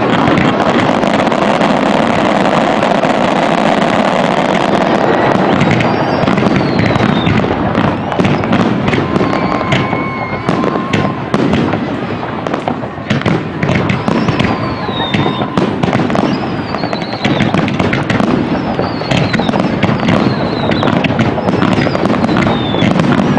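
Aerial fireworks going off in a dense, continuous barrage of bangs and crackle. Several short whistles fall in pitch over the second half.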